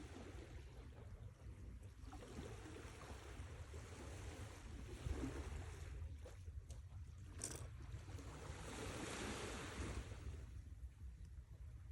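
Sea waves washing in on the shore, the surf swelling twice and falling back, over a steady low rumble.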